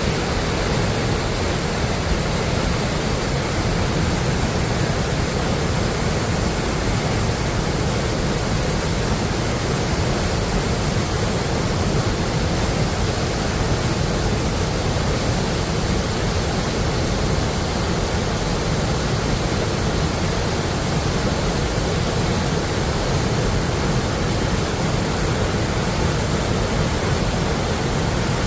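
River waterfall: a steady rush of falling water, loud and even, with no breaks.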